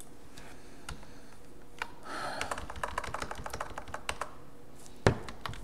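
Computer keyboard typing: a run of key clicks starting about two seconds in, with one sharper click near the end.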